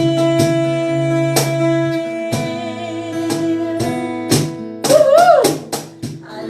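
Acoustic guitar strumming chords in worship music, with notes held steadily underneath. A voice glides briefly up and down about five seconds in.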